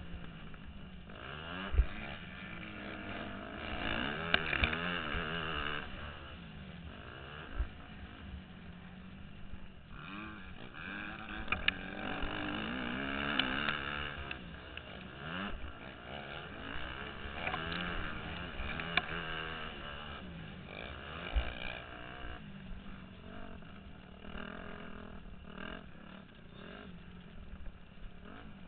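Motocross bike engine revving hard and easing off again and again, its pitch rising and falling with throttle and gear changes, heard from the rider's helmet. A few short thumps break through.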